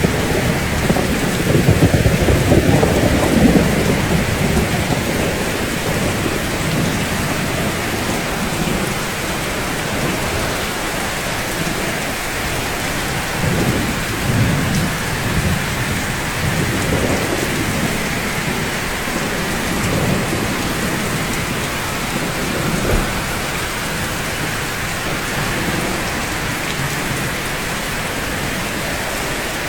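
Steady rain with low rolling thunder, loudest in the first few seconds and returning more faintly several times later.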